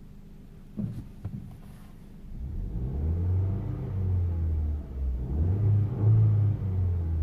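2013 Ford Fiesta's four-cylinder engine revved from inside the car, its low rumble rising and falling in pitch several times. Two short clicks come about a second in.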